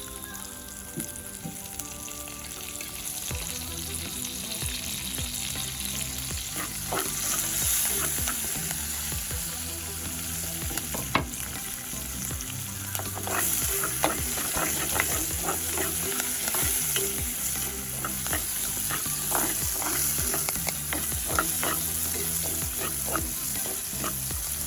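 Food sizzling in a hot pan while it is stirred, a utensil clicking and scraping against the pan. The stirring grows busier from about seven seconds in.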